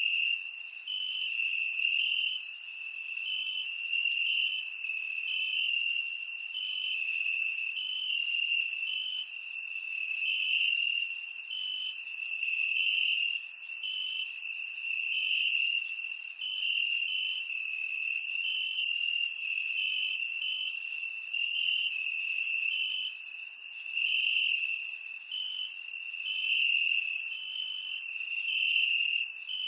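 Crickets chirping: a steady high trill with shorter chirps repeating over it, about once or twice a second.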